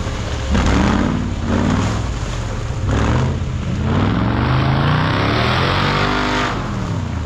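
Off-road 4x4 competition vehicle's engine revving hard in repeated surges, its pitch climbing with each burst, with a longer rev from about four seconds in that drops away near the end.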